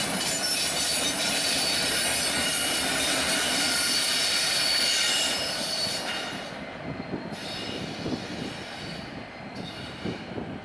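Railroad cars rolling past with their wheels squealing: a loud, steady, high-pitched screech of several tones at once. The squeal dies away about six seconds in, leaving a quieter, uneven rumble and clatter of wheels.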